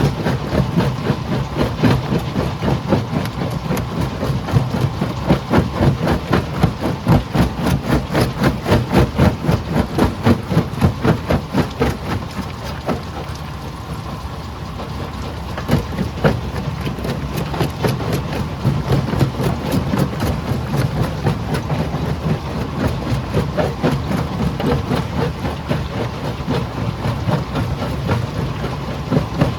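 Stone crusher running: a steady heavy engine drone under a dense, rapid clatter of rock being struck and broken. The clatter is heaviest in the first half, eases briefly past the middle, then picks up again with a sharper knock.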